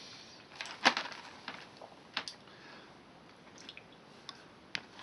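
A snack packet being handled: scattered faint clicks and crinkles, the sharpest about a second in.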